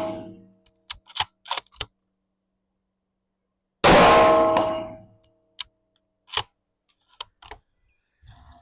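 A .300 Win Mag bolt-action rifle fires once about four seconds in, a loud shot with a long decaying tail. Short metallic clicks of the bolt being worked come before and after it, and the tail of a previous shot fades at the start.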